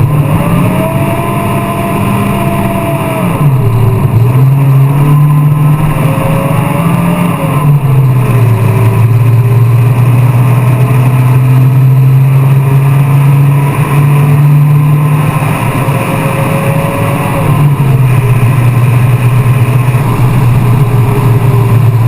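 Volvo car engine running hard under load, its pitch holding steady, then dropping and rising again several times as revs change: a sharp drop about three and a half seconds in, a climb near seven seconds, and drops near eight and seventeen seconds.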